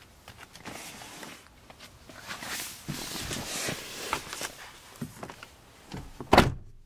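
Rustling and soft clicks of things being handled inside a car's rear cabin, ending with one loud thump that cuts off suddenly.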